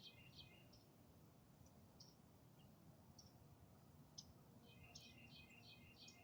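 A faint songbird singing a quick phrase of about five repeated notes at the start and again near the end, with a few single chirps in between.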